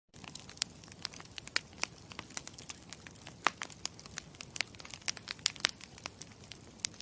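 Campfire crackling: wood burning with a steady low rumble and many sharp, irregular pops and snaps.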